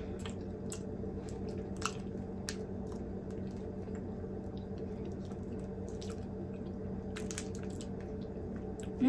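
A person chewing a chocolate-covered wafer bar, heard as faint scattered mouth clicks and wet smacks over a steady low hum.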